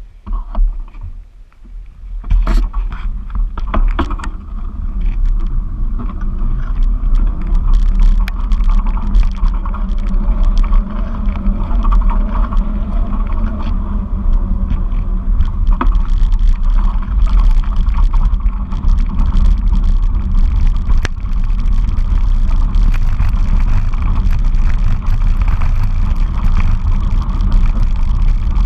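Wind buffeting the microphone of a camera carried on a moving bike, a loud, steady low rumble with scattered knocks and rattles from the ride. It starts quieter and builds over the first few seconds as the ride gets under way.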